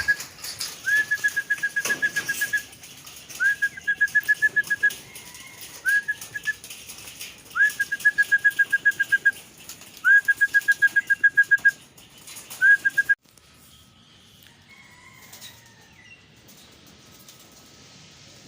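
A pigeon fancier's trilling whistle, blown about six times: each call slides up and then holds one steady trilled note. It is the trained call for young racing pigeons to come into the loft to feed. Pigeon wings flap around it, and the sound cuts off suddenly about 13 seconds in.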